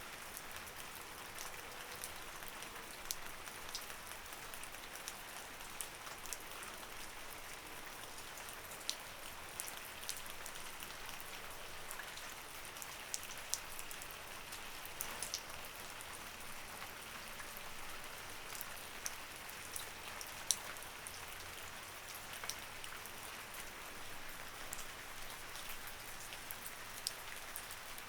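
Light rain falling steadily, a soft hiss of rain with many separate drops ticking sharply on a surface at irregular moments.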